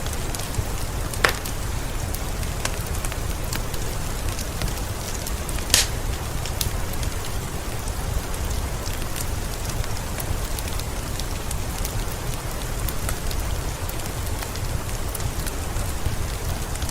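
Steady rain falling, mixed with a crackling wood fire that gives many small clicks. There are two louder sharp pops, about a second in and just before six seconds.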